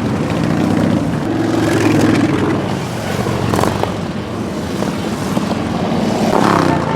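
Motorcycle engines running as a stream of bikes rides past, with a steady low drone that swells and fades a little.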